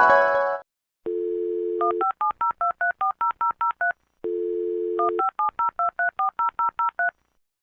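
Telephone dialing sound effect, heard twice: a steady dial tone for about a second, then a rapid string of about ten touch-tone keypad beeps. The tail of a rising synth sweep from the previous effect fades out at the very start.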